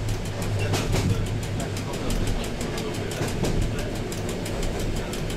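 Train running along the track, heard from inside the cab: a steady low rumble and hum with frequent light clicks of the wheels over the rails.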